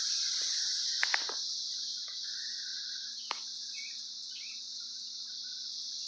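Dense, steady chorus of Brood X periodical cicadas: a continuous high-pitched drone. A few sharp clicks come about a second in, and another just past three seconds.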